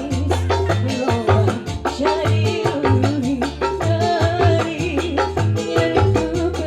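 Live band music: a fast, even percussion rhythm over a steady bass line, with a melodic lead that bends in pitch.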